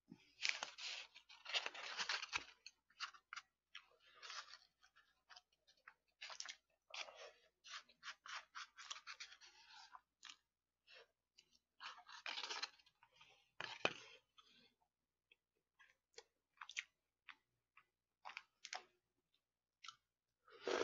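Close-miked chewing of braised chicken with aged kimchi: wet mouth noises and crunching in short, irregular bursts, busiest in the first couple of seconds and again about twelve seconds in.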